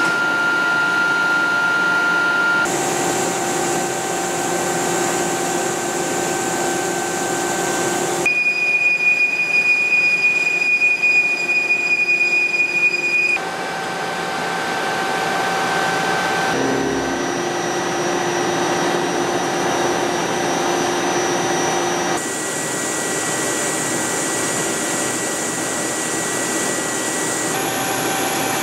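Hwacheon CUTEX-180 CNC turning center running, with a steady hiss and high whine tones. The pitch and tone change abruptly every few seconds. In one stretch a higher whine has a fluttering loudness.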